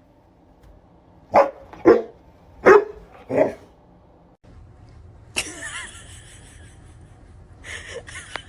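A dog barking four times in about two seconds, starting a little over a second in. The barks are followed by a steady, rustling hiss.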